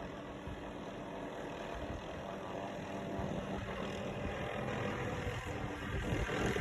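Helicopter rotor and engine, a steady low drone with a fluttering beat that grows steadily louder as it approaches.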